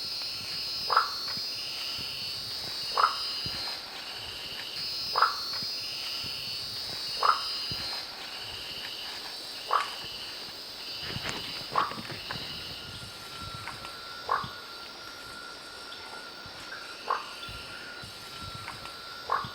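Marsupial treefrog (Gastrotheca recava) calling: short, sharp single notes about every two seconds, nine in all. A steady high chorus of insects or other frogs runs behind.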